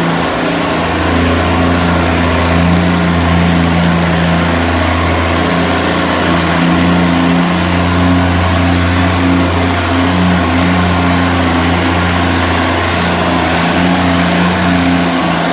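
Antique pulling tractor's engine running hard at a steady, high pitch under load during a pull, with a few brief dips in pitch.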